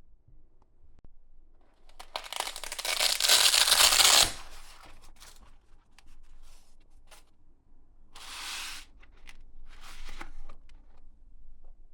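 Packaging being torn open or unwrapped: a loud tearing rasp lasting about two seconds, a shorter one about six seconds later, and scattered clicks and knocks from handling.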